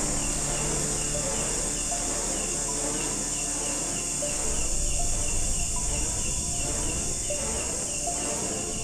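Steady chorus of insects in woodland, with one insect's short chirp repeating about two to three times a second. A low rumble runs underneath and grows a little louder about halfway through.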